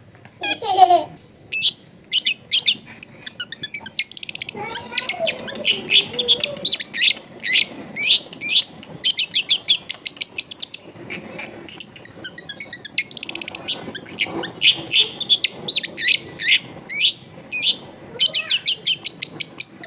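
Long-tailed shrike (cendet) singing a fast, varied song of sharp high chirps and trills, the mimicry-rich 'full isian' song of a bird in full voice (gacor). It pauses briefly about four seconds in and again near twelve seconds.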